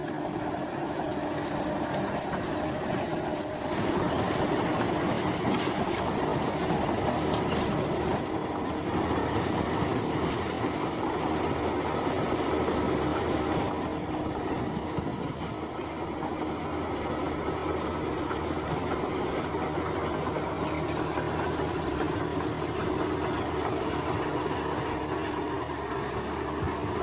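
Crawler bulldozer working: its diesel engine runs steadily under load, with the squeal and clank of its steel tracks. It gets a little louder about four seconds in and eases off around the middle.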